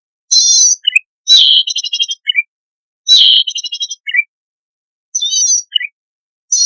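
Cisticola song played as a lure: short high, buzzy, wavering phrases repeated every second and a half or so, each ending in one or two lower short notes, and two of them running into a rapid rattling trill.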